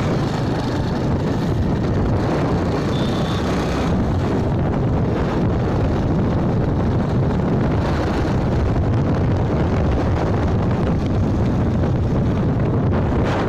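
Steady wind rush and road noise from a moving motorbike, with wind buffeting the microphone.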